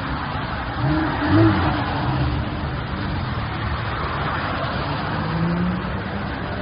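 A car driving, with steady road and engine noise. The engine note rises briefly and gets louder about a second in.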